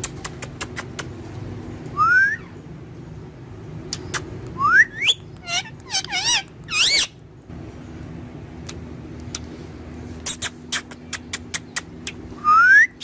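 Pet parrot whistling: several short rising whistles and a warbling trill, among scattered sharp clicks.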